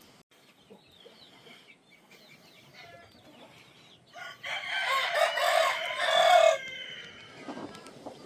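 A rooster crowing once, loud and about two seconds long, about halfway through. Faint short bird calls come before it.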